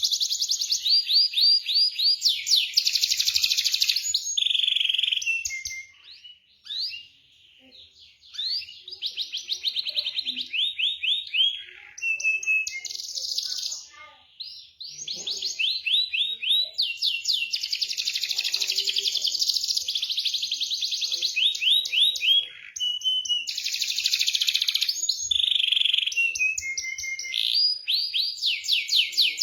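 Domestic canary singing a long, loud song of fast rolling trills and rapid repeated high notes. The song breaks off briefly twice, about a quarter of the way in and again near the middle.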